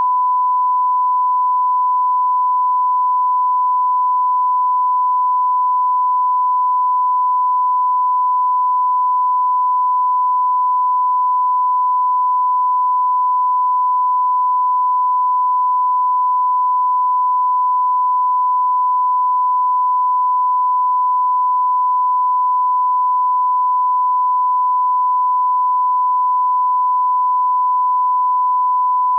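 A steady electronic test tone: one pure, unchanging pitch held without a break.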